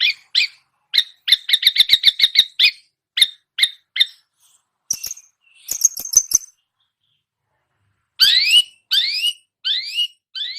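Long-tailed shrike (cendet) singing a mimicked song of other songbirds. It gives a fast run of sharp, clipped chirps, a pause, then a series of rising whistled sweeps near the end.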